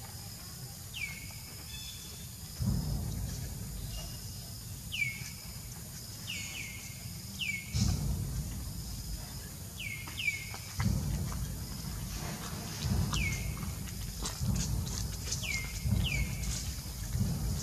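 A bird giving short, downward-sliding chirps about a dozen times, often in quick pairs, over a low rumble that comes and goes.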